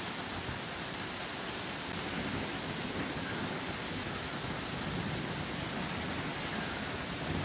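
Steady, even hiss of rain falling in a thunderstorm.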